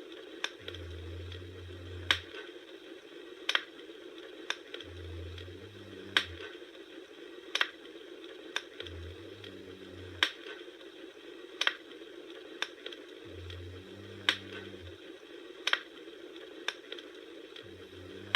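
Wood fire crackling: sharp pops about every second and a half over a steady soft hiss, with a low hum that swells and fades about every four seconds.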